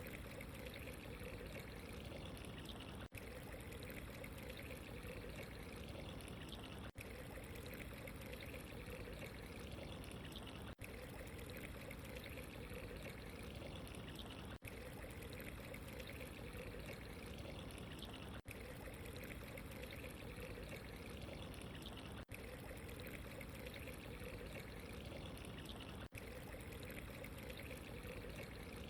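Steady running water as an ambience track, with a very brief dropout about every four seconds.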